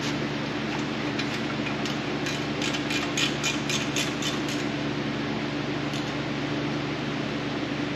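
Steady machine hum, like a fan or air-conditioning unit running, with a quick run of light ticks and clicks a few seconds in and one more click later.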